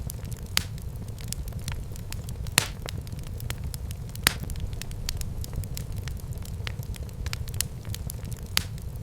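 Wood fire burning in a fireplace: a steady low rumble of flame with constant crackling and occasional sharper pops, the loudest about two and a half and four seconds in.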